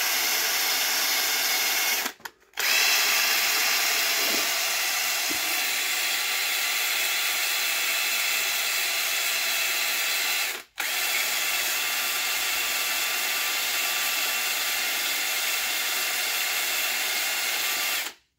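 Power drill spinning a cylinder hone in the cast-iron bores of a VW EA888 Gen 3 engine block, a steady whir with two short gaps. It stops abruptly near the end. The honing is meant to clear scoring from a cylinder wall.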